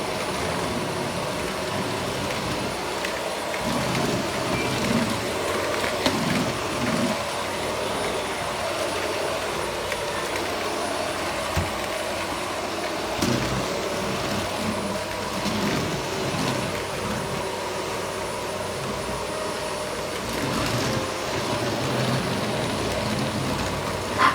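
Vacuum cleaner running steadily with a whining hum, its lower sound wavering as it is worked over the floor, with a few short knocks.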